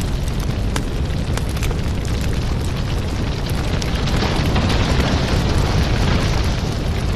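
Firewood burning: a steady low roar of flame with scattered sharp crackles and pops, swelling into a louder hiss for a couple of seconds past the middle.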